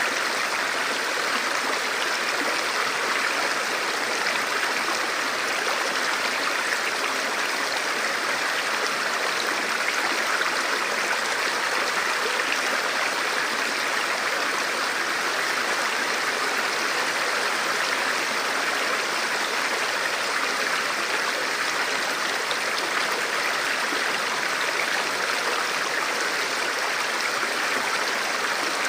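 Forest river or creek flowing steadily over rocks, a continuous even rush of water.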